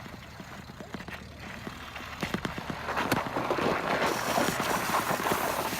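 Bicycle rolling along the road: clattering rattles, with wind and tyre noise that grow louder about two to four seconds in as it picks up speed.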